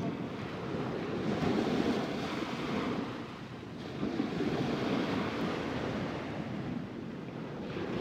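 Surf washing onto a sandy beach, swelling and easing every few seconds, with wind buffeting the microphone.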